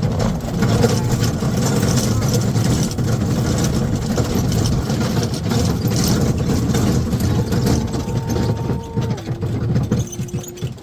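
Dog sled moving along the trail: steady rumbling, rushing ride noise with wind buffeting the microphone.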